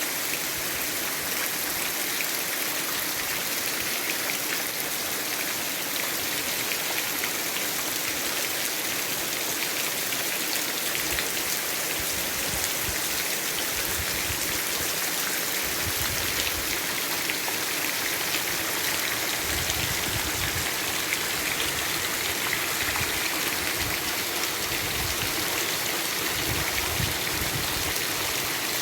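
Steady hiss of heavy rain falling, with low rumbles coming and going in the second half.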